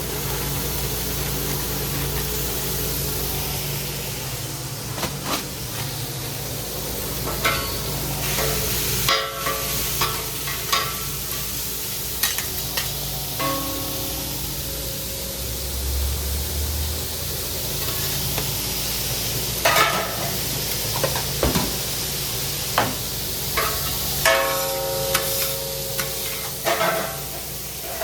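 Food frying with a steady sizzle, over which metal kitchen utensils knock, scrape and clink many times, some of the clanks ringing briefly.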